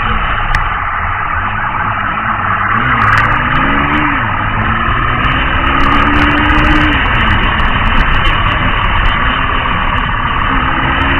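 Motor vehicle engine running under steady road noise, its pitch rising and falling slowly a couple of times as it revs.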